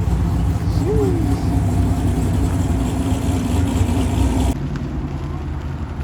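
Deep, steady rumble of car engines as cars creep along at low speed. A brief rising-and-falling tone sounds about a second in. About four and a half seconds in the sound changes abruptly and turns duller.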